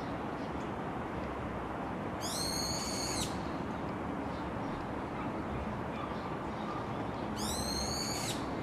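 A bird calling twice, about five seconds apart: each call is a single high-pitched note about a second long that rises slightly at the start, over a steady background hiss.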